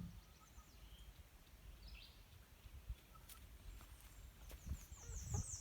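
Low wind rumble on the phone's microphone with a few faint knocks, and near the end a small bird's quick high trill of about eight rising notes.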